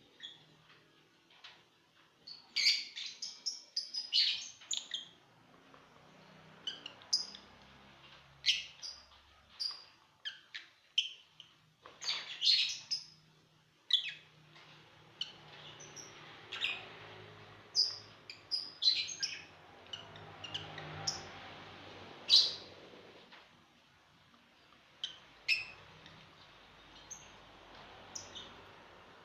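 Lovebirds chirping: short, high calls that come in quick runs with pauses between.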